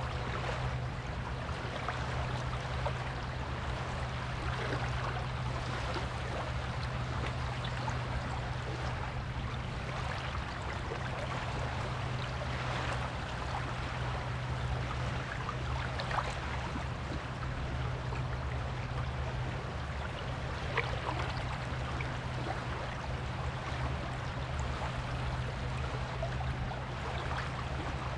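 Waves washing steadily on a beach, an even hiss of water with small crackles, over a constant low rumble.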